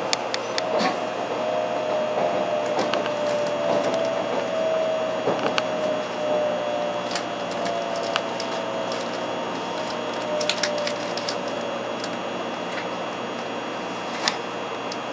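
Hikari Rail Star 700-series shinkansen running, a steady rumble with a thin tone that slowly falls in pitch over about ten seconds, and scattered sharp clicks and creaks.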